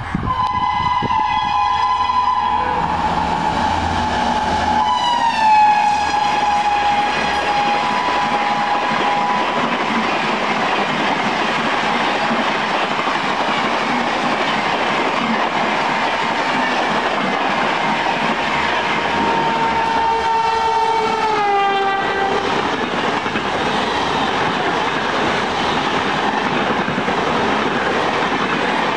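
Rajdhani Express passing at high speed. The locomotive's two-note horn blows as it comes in and drops in pitch as it passes, about five seconds in. Then comes the steady rush and rattle of the LHB coaches running by, with another horn blast, falling in pitch, around twenty seconds in.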